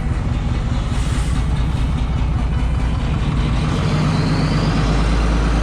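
Truck engine running steadily, with a deeper, steadier hum setting in about four seconds in.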